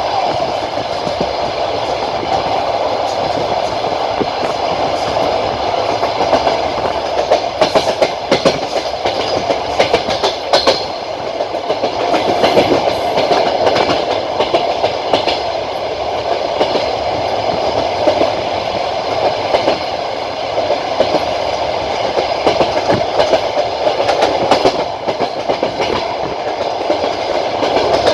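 Passenger train coaches running along the track, with a steady rolling rumble and irregular sharp clacks of the wheels over rail joints, bunched into short runs in places.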